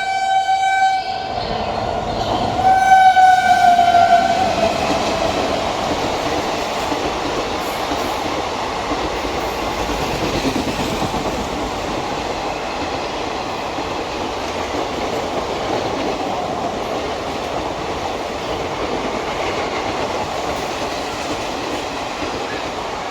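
Indian Railways express train passing at full speed: the locomotive horn sounds twice in the first few seconds, the second blast dropping in pitch as the engine goes by. The coaches then rush past in a steady roar of wheels on rail.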